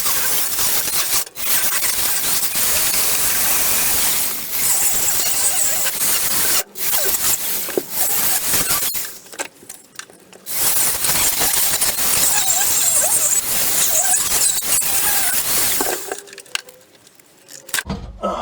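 Angle grinder with a cutting disc screeching as it cuts through the car's rusty floor sheet steel. It pauses briefly a few times, with a longer break about nine seconds in, and stops near the end.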